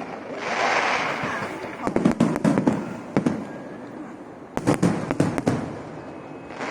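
Aerial fireworks going off: a rushing hiss about half a second in, then two volleys of rapid sharp crackling bangs, one about two seconds in and another near five seconds.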